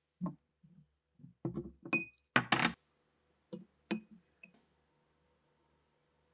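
Small metal rifle parts clinking and knocking as they are handled, a few strokes leaving a brief metallic ring, with a short rattling clatter about two and a half seconds in.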